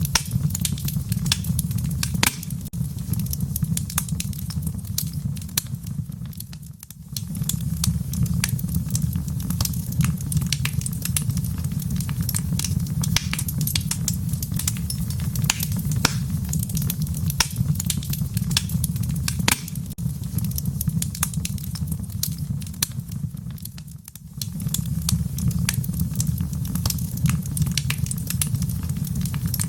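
Wood fire in a fireplace crackling, with frequent sharp pops and snaps over a steady low rumble. The sound dips briefly twice, about seven seconds in and again near the end of the third quarter.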